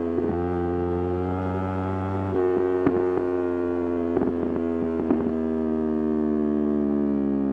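Yamaha R3's 321 cc parallel-twin engine under way, with a steady note whose pitch steps down about a third of a second in, steps back up a couple of seconds later and eases slowly down near the end. A few sharp clicks sound in the middle.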